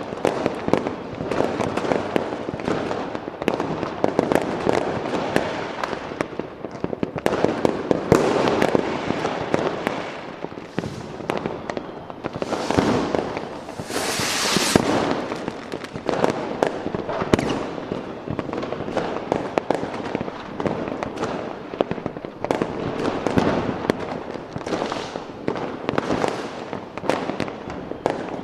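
A dense, continuous fireworks barrage: many overlapping bangs and crackling reports. There is a longer hissing whoosh about twelve to fifteen seconds in, like a rocket going up.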